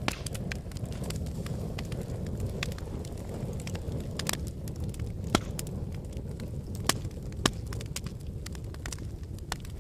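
Wood fire burning in a fireplace: a steady low rumble of flames with irregular crackles and sharp pops, three louder pops a little past the middle.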